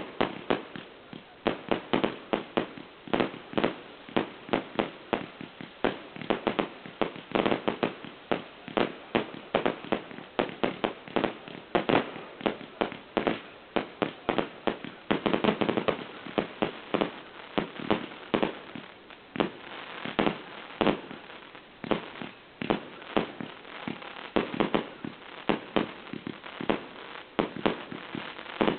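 Fireworks display going off: a rapid, continuous string of aerial shell bursts and bangs, several a second, with a denser, heavier flurry about halfway through.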